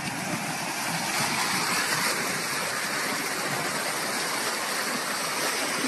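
Steady, even rushing noise of running water, unchanging throughout.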